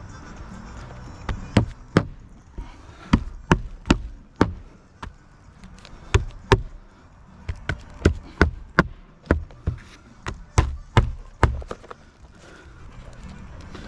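Hammer blows on a roof, about twenty sharp strikes in irregular runs of two or three a second, stopping a couple of seconds before the end.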